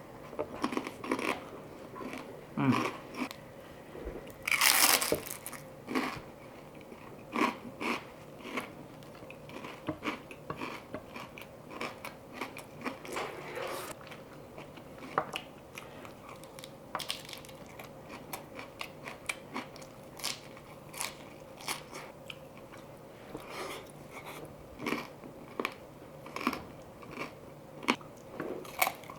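Chewing and crunching of pork chicharon (fried pork rind) nachos: irregular crisp crunches, several a second, with a louder, longer crunch about five seconds in.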